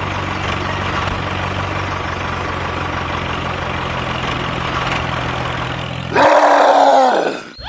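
Tractor engine running steadily at idle. About six seconds in, a louder sound with a falling pitch cuts in over it and stops abruptly.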